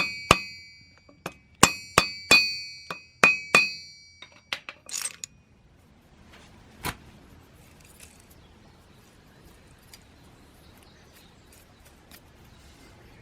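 Metal parts being struck or knocked together, about six sharp clinks in the first four seconds, each ringing on at the same high pitches. A brief scraping rasp follows around five seconds, then a single knock, then quiet.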